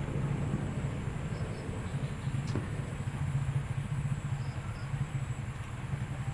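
A steady low background rumble, with a couple of faint clicks, one about two and a half seconds in and one at the very end.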